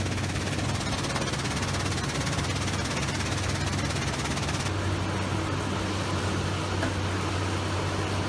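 Heavy diesel-powered machine running steadily: a constant low engine drone under a broad noisy rush. The high hiss thins a little about halfway through.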